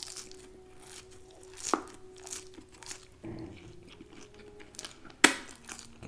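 Close-miked chewing and crunching of crispy fried food, with scattered small crackles and a sharp click about five seconds in.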